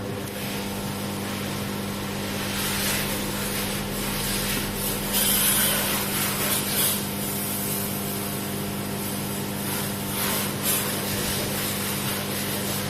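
A power tool running steadily, its motor humming, with rough scraping and rubbing that swells louder several times as it works against a part.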